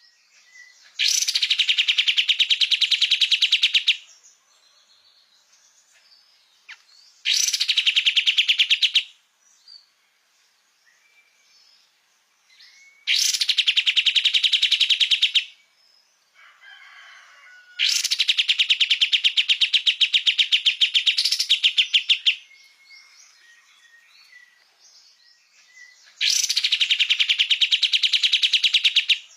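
Kapas tembak songbird singing in five loud bursts of rapid, fast-repeated notes, each two to four seconds long, with short pauses holding faint chirps between them.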